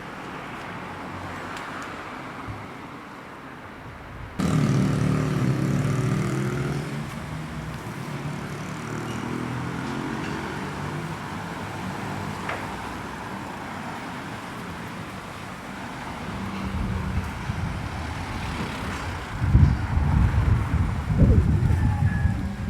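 Road traffic: a vehicle engine comes in suddenly about four seconds in and fades over the next few seconds, over a steady traffic hum. A louder, rough low rumble builds near the end.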